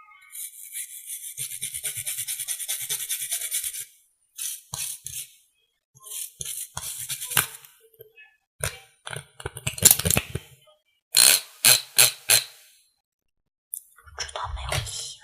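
Close-up ASMR makeup sounds: about four seconds of fast, continuous brushing strokes, then a series of short scratchy brushing and tapping strokes.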